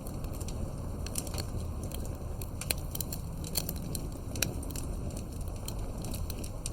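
Fireplace crackling: irregular sharp pops and snaps over a low, steady rumble.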